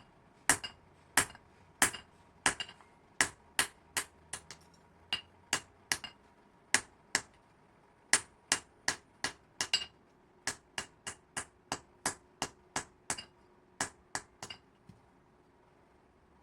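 Blacksmith's hand hammer striking metal in a long series of sharp, ringing blows, a little over two a second, which stop shortly before the end.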